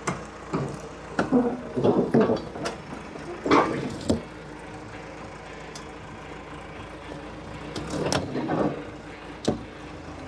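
Heavy load chains clanking and rattling against steel as the bulldozers are chained down on a gooseneck trailer: a run of sharp metal knocks in the first few seconds and again near the end, over a steady low engine idle.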